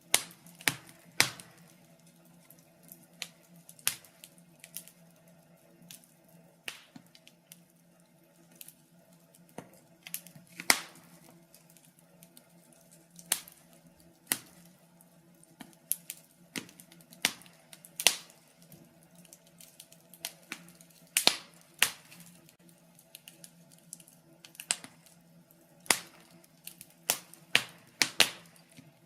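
Wood fire crackling: burning logs giving off irregular sharp pops and snaps, several every couple of seconds, over a faint low hum.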